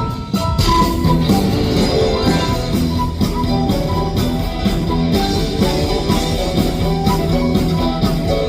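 Rock band playing live: electric guitar, bass and drum kit keeping a steady beat.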